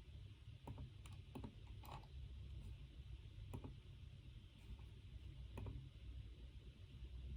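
Faint, irregular computer keyboard keystrokes, a scattered handful of clicks rather than steady typing, over a low steady room hum.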